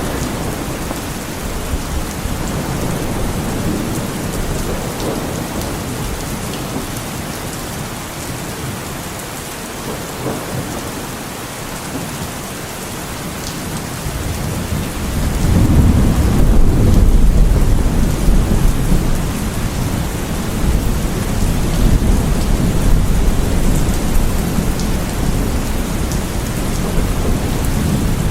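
Heavy rain falling steadily through a thunderstorm, with a roll of thunder rumbling in about halfway through and slowly dying away.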